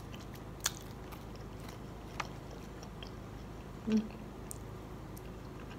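A person chewing food, with a couple of sharp clicks of a plastic fork against the plate and a short hummed "mm" about four seconds in, over a steady background hum.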